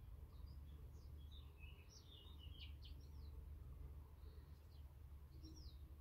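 Faint garden birdsong: short high chirps and twittering notes, a run of them in the first three seconds and a few more near the end, over a low steady rumble.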